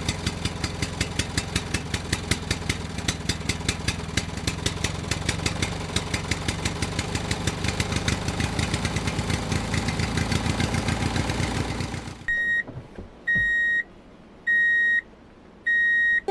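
Mini tractor's small engine running with an even, pulsing beat of about four pulses a second, then stopping about twelve seconds in. Four short high beeps follow, evenly spaced about a second apart.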